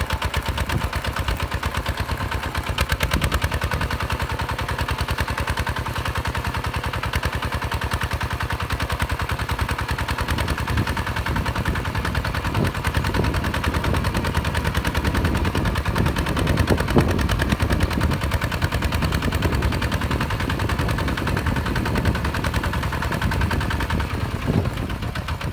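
Hinota HG Gold 155 DI tractor's direct-injection diesel engine running steadily with a rapid, even chugging.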